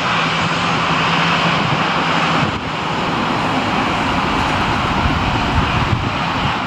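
Airliner engines running, a loud steady rush of noise with a low hum underneath that stops about two and a half seconds in.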